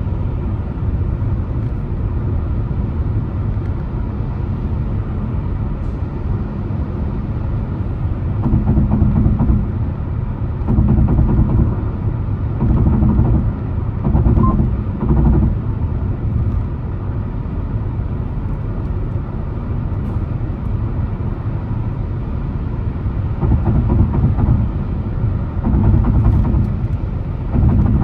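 A car driving along, with a steady low rumble of road and engine noise. Several times it swells louder for about a second.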